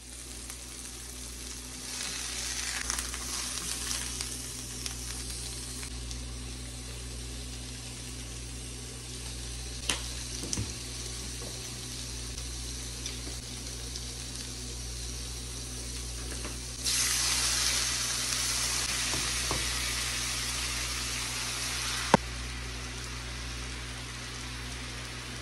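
Hamburger patties and bacon sizzling in nonstick skillets on an electric glass-top stove: a steady frying hiss over a low hum. The hiss grows louder for about five seconds past the middle, and one sharp click comes near the end.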